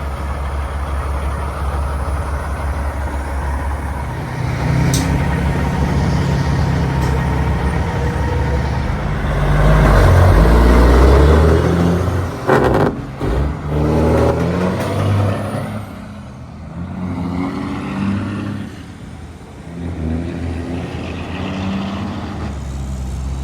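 Heavy truck engine passing by, its pitch stepping up and down as it goes through gears. It grows loudest about halfway through, then fades and comes up again.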